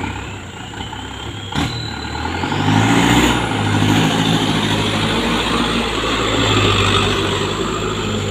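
Engine of a loaded palm-fruit truck running hard, its pitch and a high whine rising over the first three seconds and then holding steady. A single sharp knock about one and a half seconds in.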